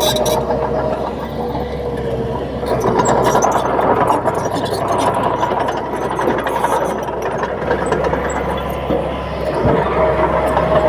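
Komatsu D31P bulldozer's diesel engine running under load, a steady low hum that swells for several seconds in the middle, with scattered metallic clanks.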